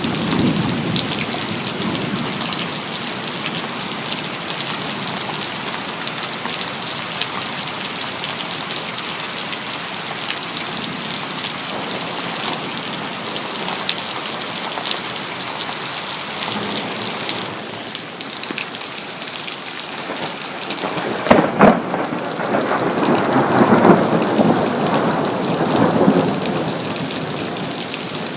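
Steady heavy rain hissing and pattering. About twenty seconds in, a sharp crack of close thunder breaks out and rolls on as rumbling thunder for several seconds before fading back into the rain.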